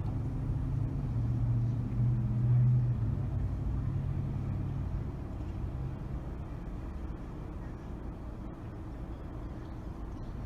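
Car driving through city streets: steady low road and engine rumble. A deeper engine drone is loudest in the first three seconds and fades out about five seconds in.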